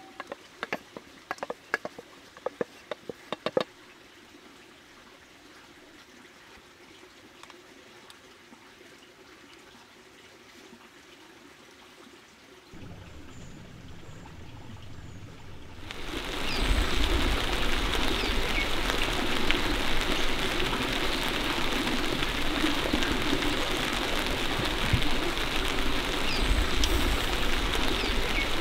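Heavy rain: a few sparse taps at first, then a quieter stretch, and a little past the middle the rain comes in abruptly and runs on as a loud, steady hiss.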